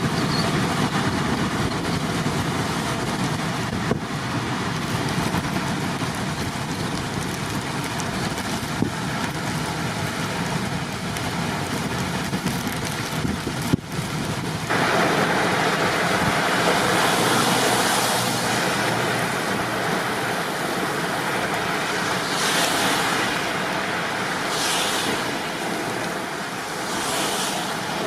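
Steady rushing of storm wind mixed with road traffic noise. It turns louder and brighter about halfway through, with several short bursts of hiss near the end.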